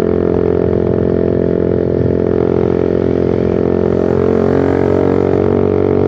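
Single-cylinder motorcycle exhaust through a short Pro Liner aftermarket muffler without its dB killer, running at low, fairly steady revs in a steady droning tone.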